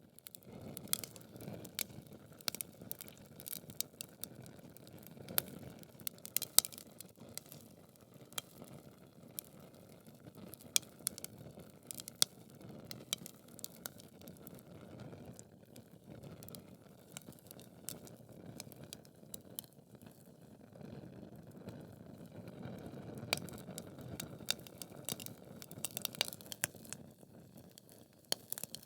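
Wood fire burning in a fireplace, crackling with irregular sharp pops over a low, steady rush of flame. The loudest pop comes about six and a half seconds in, and the flame noise swells briefly a little past the middle.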